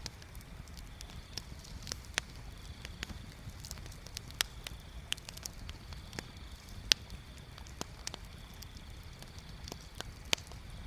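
Wood bonfire crackling, with irregular sharp pops and snaps, the loudest a little before seven seconds in, over a steady low rush.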